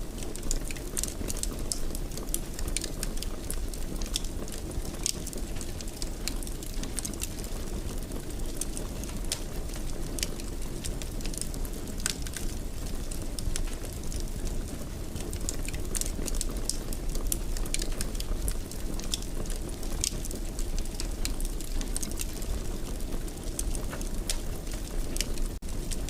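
Wood fire in a fireplace crackling and popping irregularly over a steady low rumble of burning. The sound drops out for an instant near the end.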